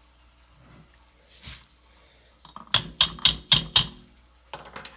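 Kitchen containers knocked together, about six sharp knocks in quick succession with a short ringing, during the straining of soaked birdseed. A brief rush of water comes first, about a second and a half in.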